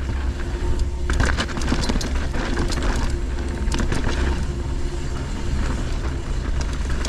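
Wind rumbling on the microphone of a riding mountain bike, with the clatter and clicks of the bike rolling over rough trail.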